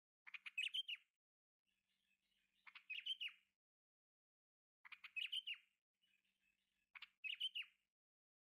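A bird chirping in four short, high phrases about two seconds apart, with faint twittering between them.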